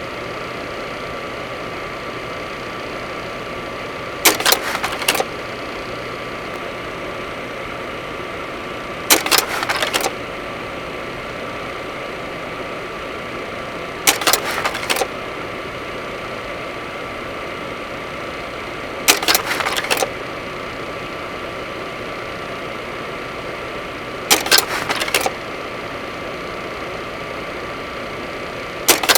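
Cessna 208 Caravan's Pratt & Whitney PT6A turboprop running steadily, heard in the cockpit. About every five seconds a short crackling burst, roughly a second long, breaks over it.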